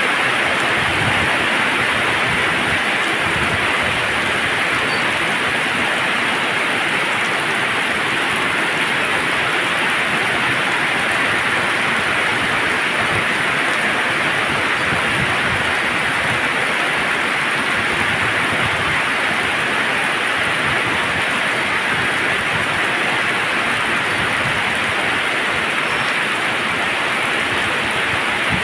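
Heavy rain pouring steadily onto roofs and wet pavement, an even hiss with no break.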